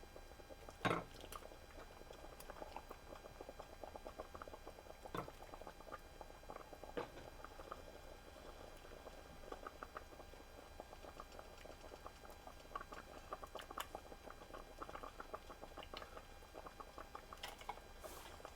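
Faint tapping, scraping and small clinks of chicken vegetable soup being dished out, with a sharper knock about a second in and a couple more around the middle.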